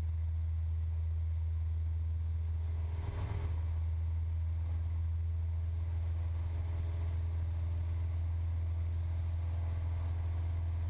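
Cessna 172's engine and propeller as a steady low drone from the cockpit, climbing out after a touch-and-go. There is a brief faint rustle about three seconds in.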